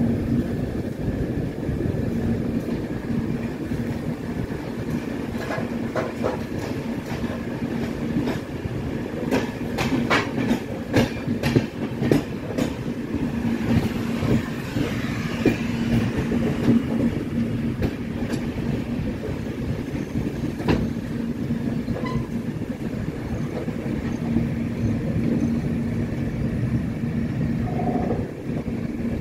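Passenger train running, heard from an open coach doorway: a steady rumble of wheels on the track with a steady low hum. A little before the middle comes a quick run of sharp clicks as the wheels pass over rail joints.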